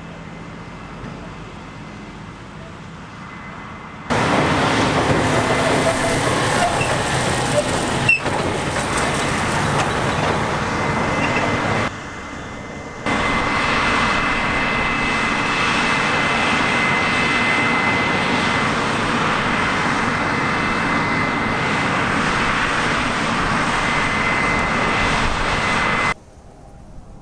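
Large harvest machinery running close by: a loud, steady mechanical noise with a constant high whine. The sound jumps abruptly between louder and quieter passages several times, at cuts between shots.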